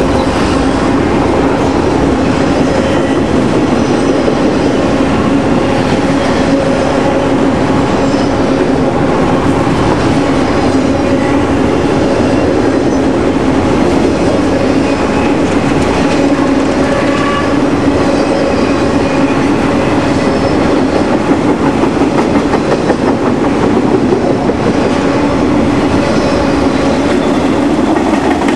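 Freight train of mostly autorack cars rolling past at speed: steady, loud rumble and clatter of steel wheels on the rails, with a steady droning hum underneath.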